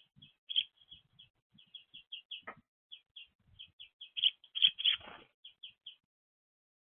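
Small songbirds chirping: a quick run of short, high calls, several a second, busiest about two-thirds of the way in and stopping about six seconds in.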